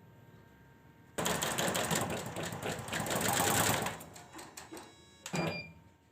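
Computerized embroidery machine stitching: a fast dense run of needle strokes for about three seconds, thinning to a few scattered ticks, then a single sharp clack near the end. The machine is on a test run after its power supply was repaired.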